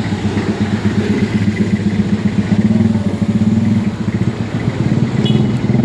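A vehicle engine running close by with a steady, low pulsing drone.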